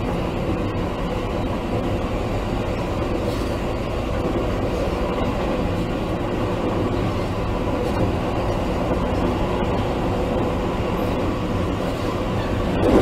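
Interior running noise of a JR East E653 series 1100 sub-series electric multiple unit, heard from inside a motor car: a steady rumble of wheels on rail at running speed between stations.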